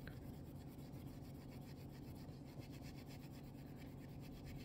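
Faint scrubbing of steel wool rubbed in quick back-and-forth strokes on the side of a straight razor blade, scouring off scuffs.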